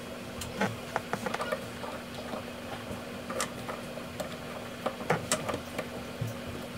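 Plastic drain-kit parts being handled and fitted onto a drain pipe: scattered small clicks and taps, over a steady low hum.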